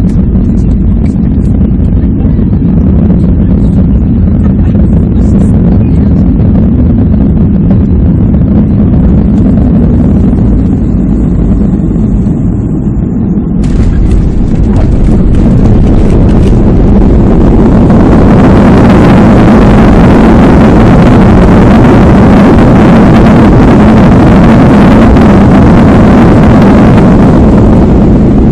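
Jet airliner cabin noise on landing: a steady low rumble, a sudden change about halfway through as the plane touches down, then the engines building to a loud roar of reverse thrust during the rollout, easing off near the end.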